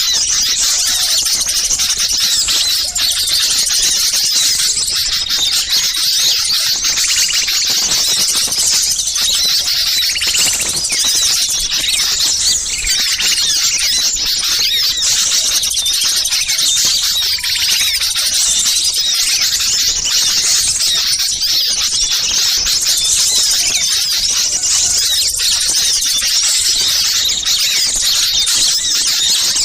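A dense, continuous chorus of many small songbirds chirping and calling over one another at a high pitch: a bird-lure recording of agitated small birds, such as bulbuls and prinias, calling noisily.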